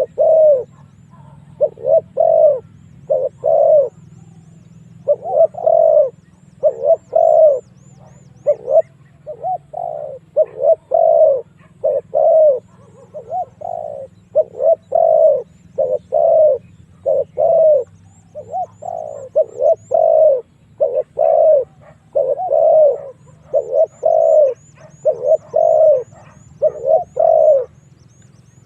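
Spotted dove cooing over and over in short phrases of two or three notes, the call used as a decoy to draw in rival wild doves. Faint high-pitched chirping comes and goes behind it.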